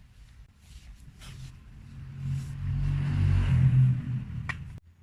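A low vehicle rumble that swells over a couple of seconds, with a single sharp click near the end before it cuts off abruptly.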